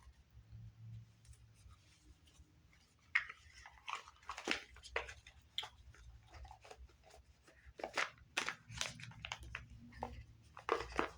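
Oracle cards being shuffled and handled: irregular quick snaps and rustles, starting about three seconds in.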